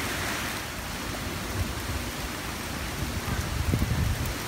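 Heavy hurricane rain falling steadily on foliage and paving, with a low rumble of wind on the microphone near the end.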